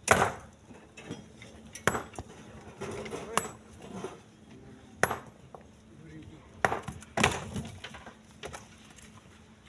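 Chunks of split stone being thrown and landing on other stones, making about half a dozen hard clacking knocks at irregular intervals.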